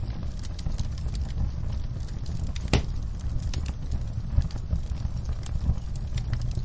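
Wood fire in a fireplace crackling: a steady low rumble with scattered small pops, and one louder pop about three seconds in.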